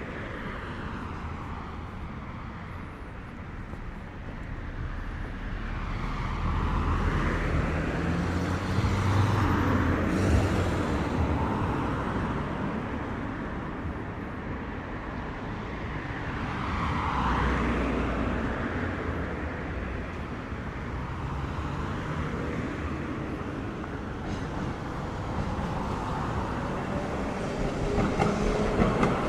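Street traffic: vehicles passing one after another over a steady low rumble, the loudest passes about a third of the way in and just past halfway.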